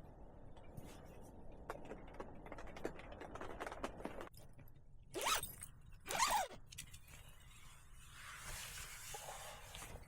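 Rustling with small crackles, then a zipper pulled in two quick strokes about halfway through, followed by a softer hiss of fabric.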